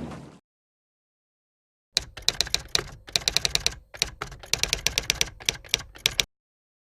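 Typewriter keys clacking rapidly in several short runs with brief pauses between them, an edited-in typing sound effect set between stretches of dead silence.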